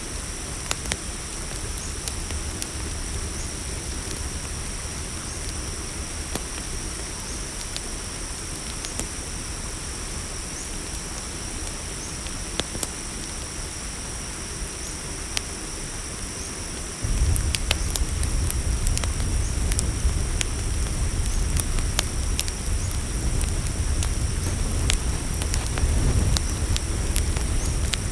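Night insect chorus of crickets trilling steadily in two high pitches, with scattered pops and crackles of a campfire. About 17 s in, a low rumble comes in abruptly and the whole bed grows louder, with the crackles more frequent.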